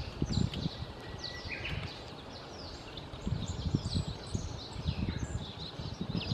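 Birds chirping repeatedly with short, quick, high falling notes, over irregular low wind rumble buffeting the microphone.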